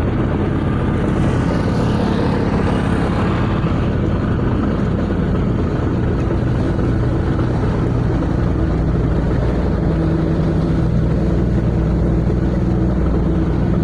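Fishing boat engine running steadily with a low, even drone. A brief hiss comes over it for a couple of seconds near the start.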